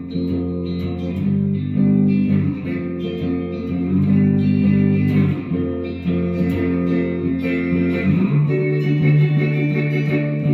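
Guitar music: held notes and chords changing every second or so, with no singing.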